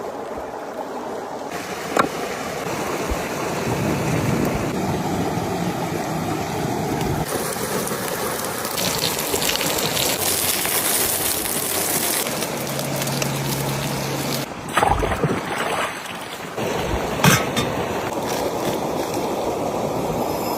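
Outdoor ambience: a steady rushing noise that changes abruptly every few seconds at edit cuts, with a few sharp knocks.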